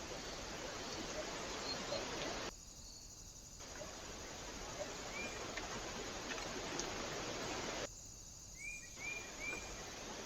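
Steady hiss from a trail camera's microphone, cutting off abruptly twice where clips join, with a few short, faint bird chirps.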